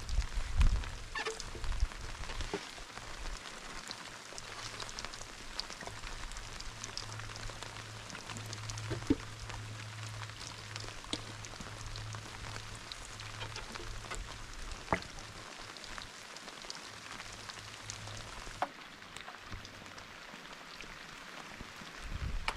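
Steady rain falling, an even hiss of drops with many small ticks and a few louder knocks.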